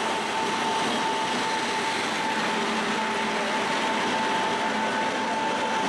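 MEMU electric train running, a steady rushing noise with a steady high whine over it.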